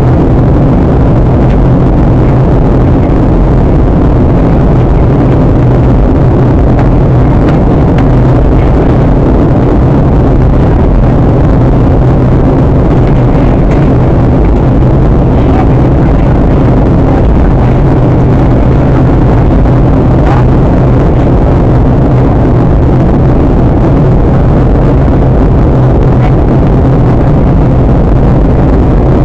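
Steady, loud cabin noise inside a Boeing 737-800 in flight: the even drone of its CFM56 turbofan engines and the rush of air past the fuselage, with a low hum that does not change.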